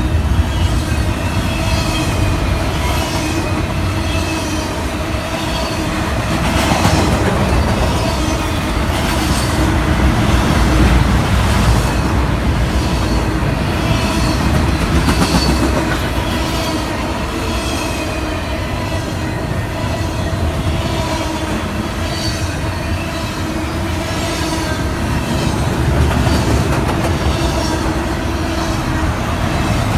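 A long freight train's cars rolling past. Steel wheels rumble steadily on the rails, with a clack at each rail joint every second or so and faint high-pitched wheel squeal.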